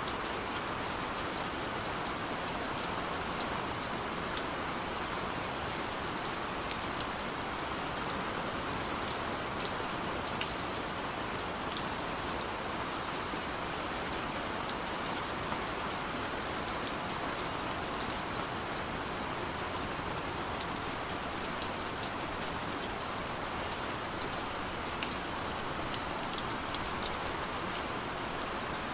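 Steady gentle rain falling, an even hiss with scattered sharp ticks of individual drops striking a surface.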